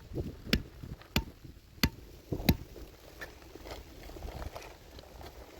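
Five sharp, evenly spaced blows about two-thirds of a second apart, struck with a hand tool, followed by a few fainter knocks.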